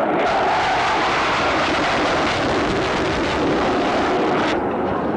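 Loud jet roar of an RAF Tornado's twin RB199 turbofan engines flying its display. The higher, hissing part of the roar stops abruptly about four and a half seconds in.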